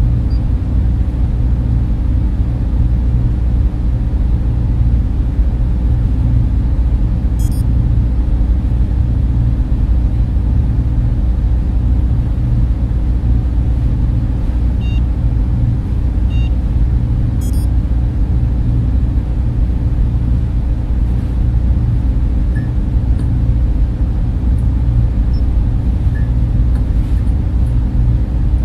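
Server room cooling fans running in a steady, loud drone, heavy in the low end with a faint hum, and a couple of faint high ticks.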